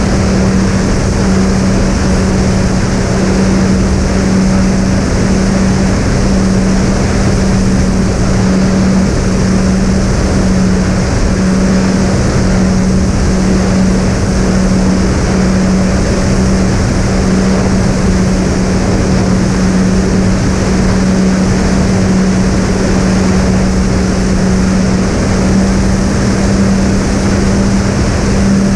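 Twin brushless electric motors (Sunnysky 2212 980 kv) spinning three-blade 7x4 propellers at steady cruise throttle: a constant, even drone with rushing air noise over it.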